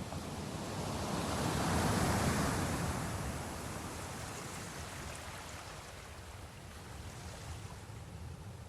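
Ocean waves breaking and washing on the shore: one wave swells to its loudest about two seconds in, then a long fading wash.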